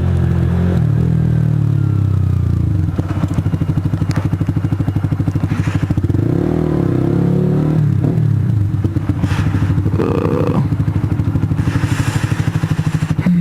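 Honda CBR125R's single-cylinder four-stroke engine running at low speed. About three seconds in it settles into an even, rapid pulsing beat, with a few brief pitch changes and light knocks and clatters along the way.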